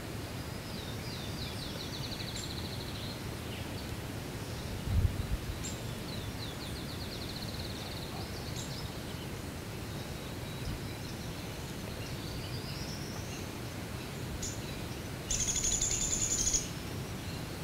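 Songbirds singing in the woods: three rapid high trills, each lasting two to three seconds and some rising at the end, over a steady outdoor hiss. A brief low thump comes about five seconds in, and a louder high buzzing sound lasts just over a second near the end.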